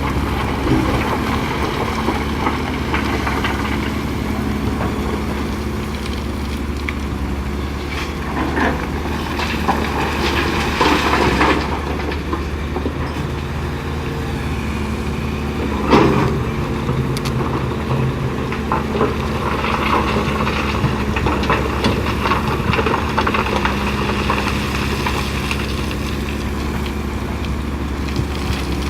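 Heavy diesel engines running steadily as a Hitachi EX450LC-5 excavator loads a dump truck with limestone. Bursts of rattling clatter come a little under halfway through, and a sharp knock about 16 seconds in.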